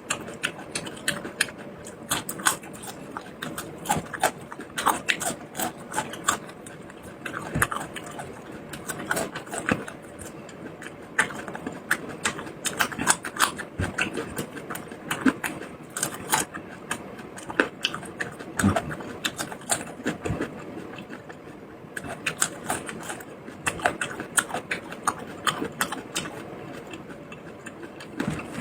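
Close-miked eating sounds: a person chewing and biting food, with many irregular clicks and smacks of the mouth.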